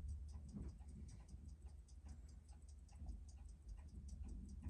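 Seiko 6105 automatic watch movement ticking evenly at about six beats a second, freshly serviced and running on a new balance, over a faint low hum.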